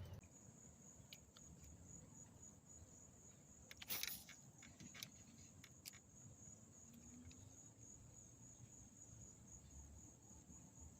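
Faint, steady high-pitched trilling of crickets, with one soft knock about four seconds in.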